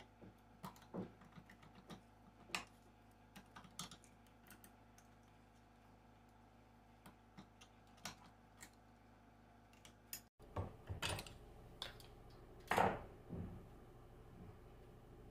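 Scattered light clicks and taps of tools and metal alternator parts being handled during disassembly, with a few louder knocks about three-quarters of the way through.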